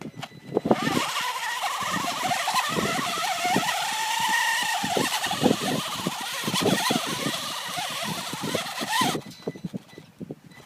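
A heavily loaded 1/14-scale RC truck's motor and drivetrain whining at full throttle, the pitch rising and then easing, cutting off about nine seconds in. Irregular clicks and knocks sound throughout.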